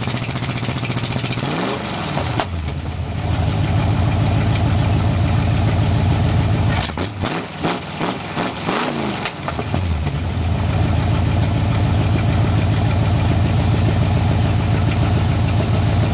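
1966 Ford Mustang's rebuilt 289 V8 on a two-barrel carb, running through Flowtech headers, 2½-inch pipes, an H-pipe and Dynomax Race Bullet mufflers. It idles steadily, is revved once about two seconds in, gets several quick throttle blips between about seven and ten seconds, then settles back to idle.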